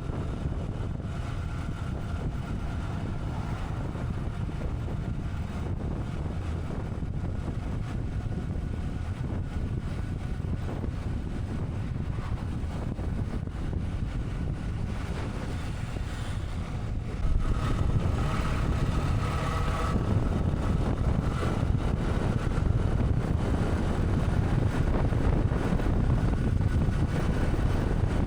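Wind rushing over the microphone of a moving motorcycle, with the motorcycle running underneath. It gets louder about 17 seconds in.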